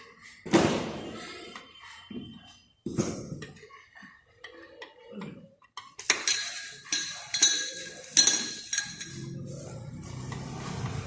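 Metal clinking and knocking from ceiling fan blades and their screws being fitted to the fan body, with a quick run of sharp, ringing clinks in the second half.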